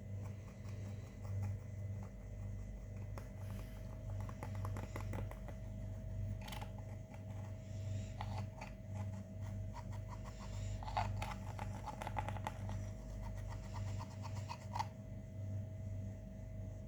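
Purple slime being mixed, making many short sticky clicks and crackles that come thick and fast through most of the stretch, the sharpest ones about two-thirds of the way in and near the end. A steady low electrical hum runs underneath.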